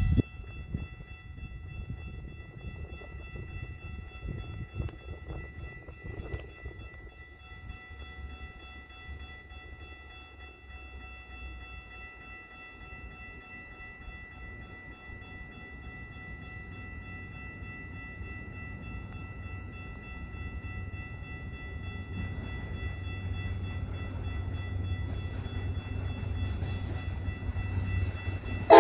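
A passenger train approaching, its low rumble growing steadily louder over the last several seconds. Through most of it runs a steady high ringing of several held tones.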